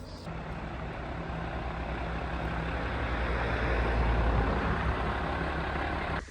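Motor vehicle running with engine hum and road noise, growing louder as it approaches, then cut off suddenly near the end.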